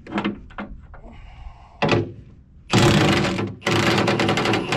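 Milwaukee impact wrench hammering on a bolt: a brief burst about two seconds in, then two longer bursts of rapid hammering of about a second each. The bolts are being backed out gently, since their nuts are only tack-welded on and can break loose.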